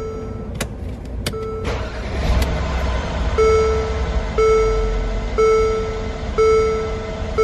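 Mercedes-Benz GL450 V8 idling just after starting, with its new crankshaft and camshaft sensors fitted. Two sharp clicks come in the first second or so, and from about halfway in a warning chime sounds about once a second over the engine.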